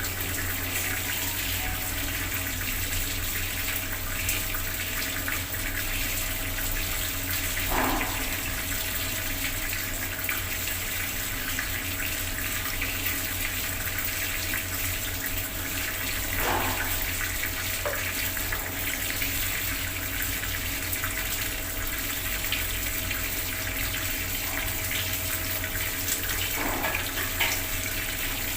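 Bathroom water tap running, its stream pouring and splashing steadily, with a few brief louder splashes.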